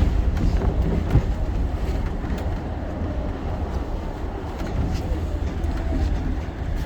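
Inside a Shonan Monorail 5000-series suspended monorail train: a steady low rumble of the train, with a few faint clicks.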